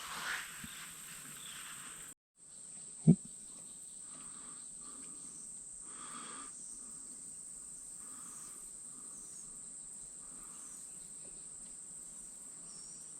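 A steady, high-pitched drone of insects, like a cricket chorus. There is a short break about two seconds in and one sharp knock a second later.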